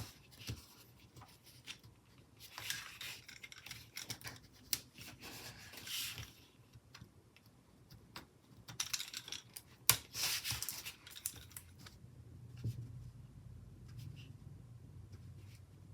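Scissors snipping paper in two stretches, about 3 s in and again around 9 s, with light taps and paper handling between.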